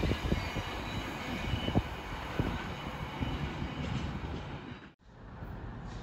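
A train rolling away along the track, its wheels knocking over the rail joints as it fades. About five seconds in the sound cuts off abruptly and is replaced by quieter steady background noise.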